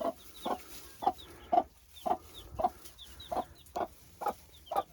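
A broody hen clucking steadily, about two short clucks a second, with the faint high cheeps of her newly hatched chicks in between.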